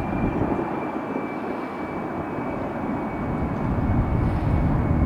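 Heavy jet airliner on its takeoff run: a steady engine rumble with a thin high whine, growing louder over the last couple of seconds.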